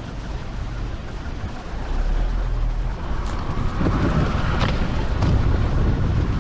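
Vehicle driving slowly along a rough dirt bush track: a steady low rumble that gets louder about two seconds in, with a few knocks and rattles from the bumps.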